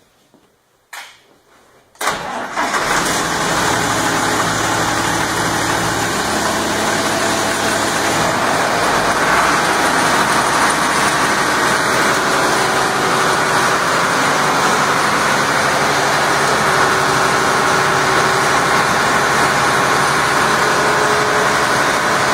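A click, then a dyno test stand starts up about two seconds in and runs steadily, driving an International 656 hydrostatic transmission. The running sound grows fuller around eight to ten seconds in.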